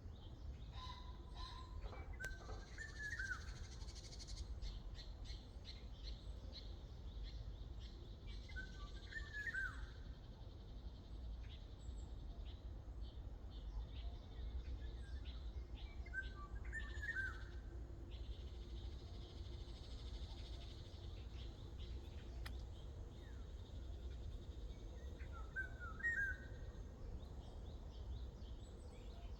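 Several wild birds singing: a short whistled phrase of quick notes is repeated four times, roughly every seven to eight seconds, over a continual high-pitched chirping, with a steady low rumble underneath.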